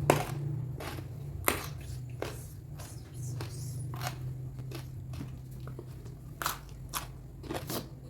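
Close-up mukbang eating sounds: irregular crisp bites and crunches of raw vegetables, jengkol or fried salted fish being chewed, over a steady low hum.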